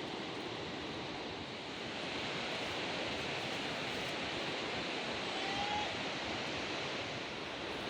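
Steady rushing outdoor ambience with no distinct events, and a faint short whistle-like call about five and a half seconds in.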